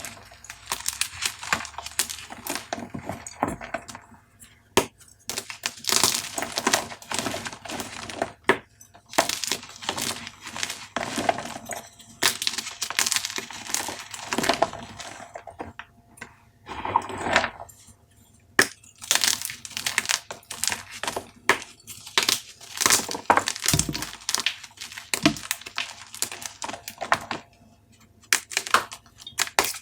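Dyed gym chalk cubes being crushed, giving irregular runs of crisp crunches and cracks with short pauses between them.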